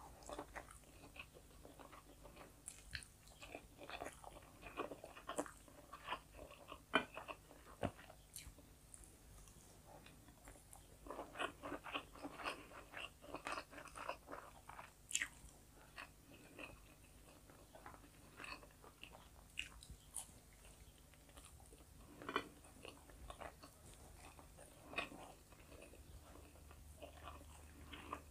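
Faint, close-up chewing and mouth sounds of a person eating rice and chicken with her fingers: irregular small smacks and clicks throughout.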